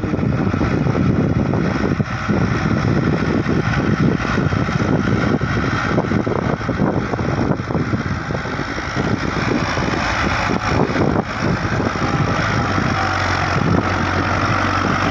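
Diesel tractor engine running steadily under load while pulling a 13-tine cultivator in second gear, high range, with a dense, rapid pulsing exhaust beat.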